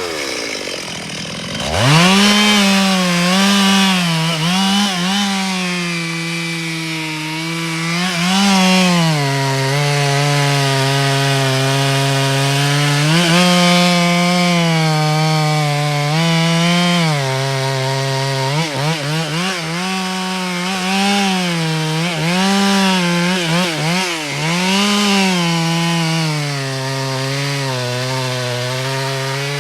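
Two-stroke chainsaw running under load while cutting wood. It revs up about two seconds in, then its pitch keeps dropping as the chain bites and rising as it frees up.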